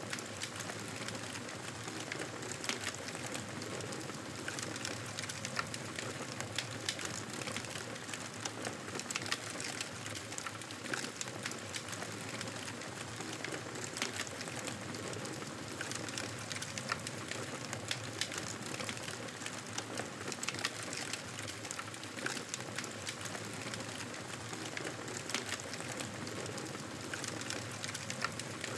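Campfire burning, with many small irregular crackles and pops over a steady hiss.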